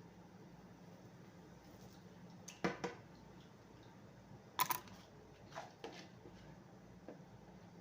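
A few sharp clicks and taps, two louder ones a couple of seconds apart and then several fainter ones, over a faint steady low hum.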